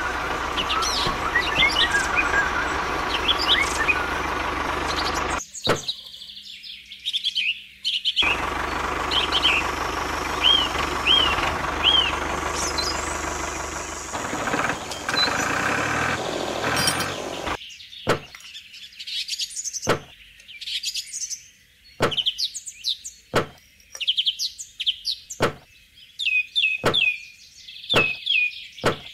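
Small birds chirping repeatedly. Over the first half a steady whirring noise runs, dropping out for a couple of seconds about six seconds in. In the second half sharp clicks and knocks come roughly once a second as small toy buckets are handled on a model trailer.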